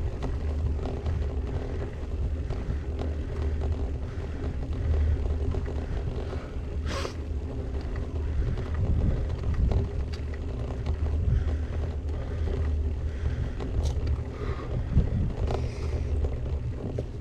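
Gravel bike on the move: a steady rumble from the tyres and wind buffeting the action camera's microphone, with scattered small rattles and a sharper click about seven seconds in.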